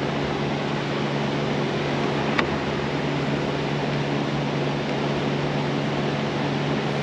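Steady whirring hum of a running fan, with one light click about two and a half seconds in.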